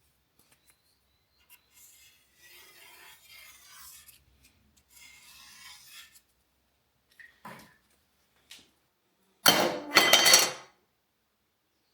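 Metal scraping and clinking: two soft rubbing strokes, a few light knocks, then two loud scraping strokes with a metallic ring about nine and a half seconds in.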